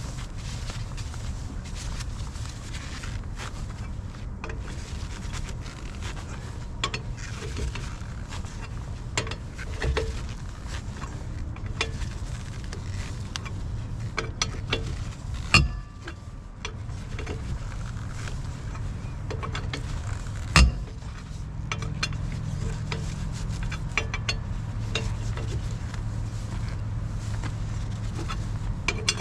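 Metal objects clinking and knocking over a steady low hum, with two sharp, louder knocks about halfway through and again some five seconds later.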